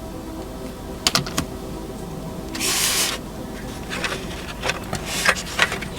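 Small plastic model parts being handled and fitted together: sharp clicks and taps, with a short scrape near the middle, as a model railcar's cab unit is worked back into its body shell.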